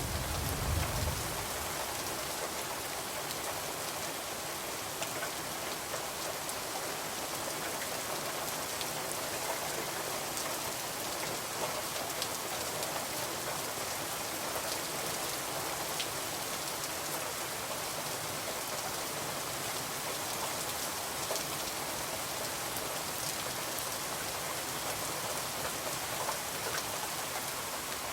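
Steady rain falling on a window: a dense, even hiss with scattered faint ticks. A brief low rumble sounds in the first second or so.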